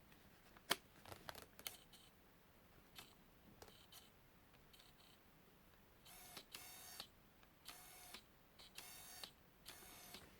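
Autofocus drive of a Tokina 11-16mm f/2.8 lens on an SLR camera, whirring in short bursts as it racks focus back and forth, about six times in the second half. Faint scattered clicks come before the bursts.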